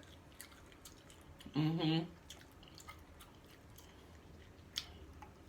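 Faint close-up chewing of a taco, with scattered small wet mouth clicks and one sharper click near the end.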